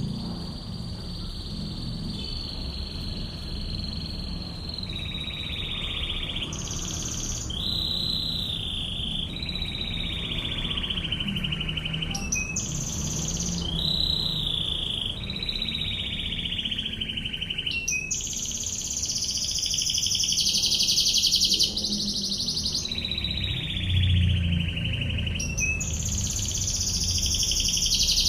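A domestic canary singing, with rolling trilled phrases a second or more long, many dipping slightly in pitch. Later it breaks into higher, fast rattling trills, the 'ngebren' machine-gun bursts prized in canary song.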